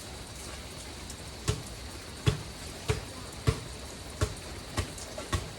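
Basketball being dribbled: seven thudding bounces, starting about a second and a half in and coming roughly every half to three-quarters of a second, over a steady hiss of rain.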